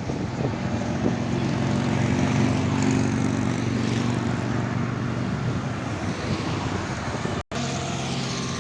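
Heavy truck's diesel engine running steadily, with a very short break in the sound about seven and a half seconds in.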